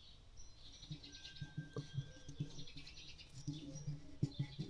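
Faint chirping, like small birds, with scattered light taps and clicks.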